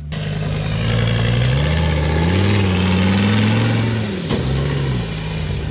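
Rock-crawling off-road rig's engine revving under throttle: its pitch climbs from about a second in, holds high, then drops back around four seconds, under a steady loud hiss.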